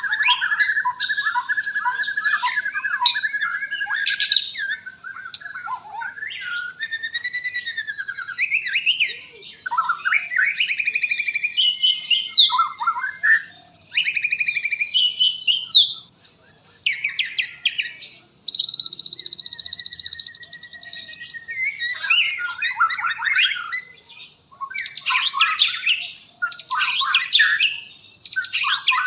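Murai batu (white-rumped shama) singing a long, varied song of whistled phrases, quick trills, rising and falling glides and a buzzy rattle, with only brief pauses.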